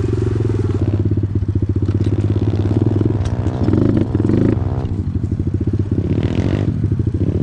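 Small off-road motorcycle engine running as it is ridden, its revs rising and falling.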